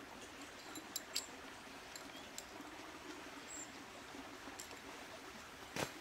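Steady hiss of rain and running creek water, with a few light clicks and one sharper knock near the end.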